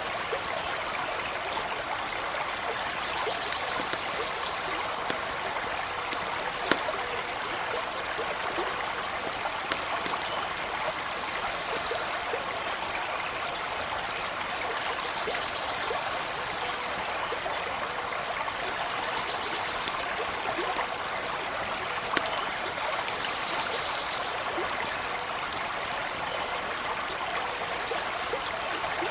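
Small stream running steadily over stones with a constant babbling rush, broken now and then by a few sharp pops.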